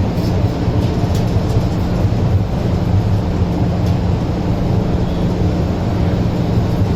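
Steady rumble of a moving passenger train, with a constant low hum throughout.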